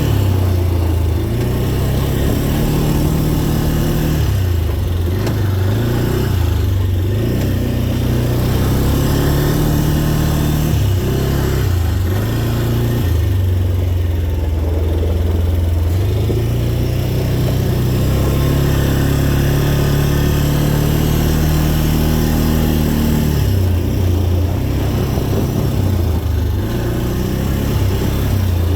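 Dirt bike engine being ridden hard over a rolling trail, its pitch rising and falling with repeated throttle changes and shifts, dropping off briefly several times as the throttle is rolled back.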